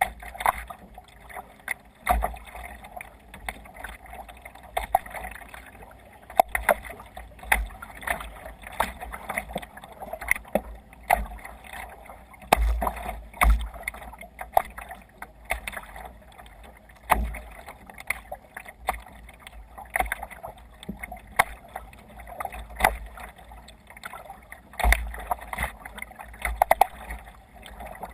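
Water slapping against a kayak's hull under way, with frequent irregular sharp knocks and low thuds.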